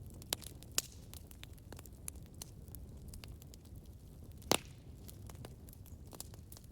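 Wood fire burning with a low steady rumble and irregular sharp crackles and pops, the loudest pop about four and a half seconds in.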